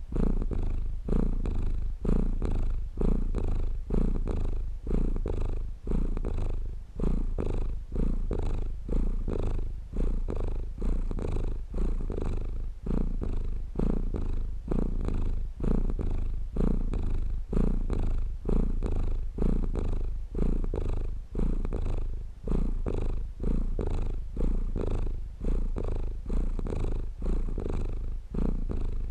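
Domestic cat purring steadily and close up, a low rumble that swells and fades about once a second.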